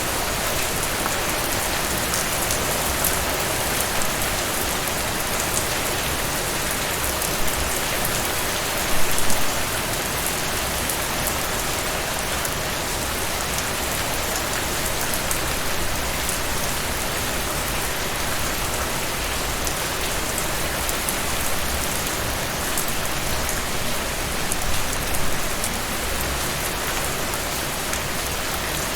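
Steady rain falling on a surface, an even hiss with scattered drop ticks, swelling briefly about nine seconds in and again near the end.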